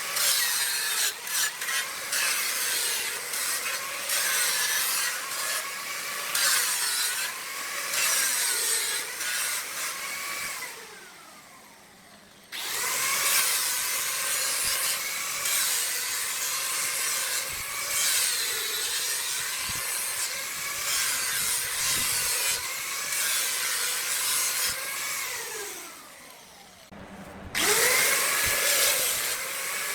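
Woodturning tool cutting into wood spinning on a lathe: a steady scraping hiss with a wavering whine. Twice it fades with a falling pitch and then starts again abruptly.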